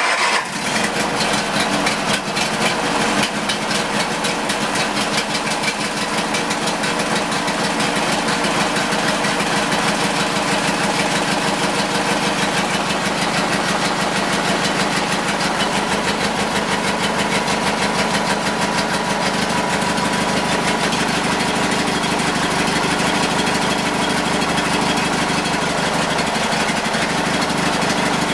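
Briggs & Stratton engine of a 1999 Yard King garden tractor running on a cold start, with an even, rapid exhaust beat. It is a little uneven for the first few seconds, then settles into a steady run.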